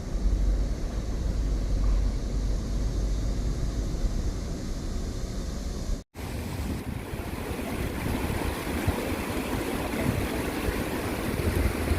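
Rushing stream water with wind buffeting the microphone, the low rumble heaviest in the first half. The sound drops out for an instant about six seconds in, then the water returns with more hiss.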